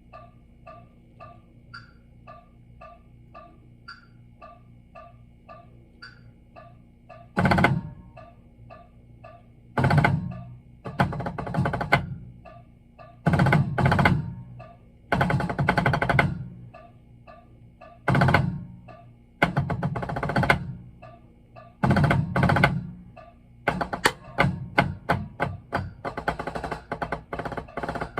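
A metronome ticks about twice a second, with a higher accented click every fourth beat. About seven seconds in, a drum comes in with loud rolls and strokes in short phrases over the clicks, getting busier near the end: a drum corps percussion part being practised.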